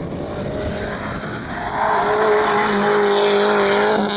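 Rally car engine at high revs on a hillclimb stage, its note getting louder about two seconds in as the car approaches and holding steady, rising slightly.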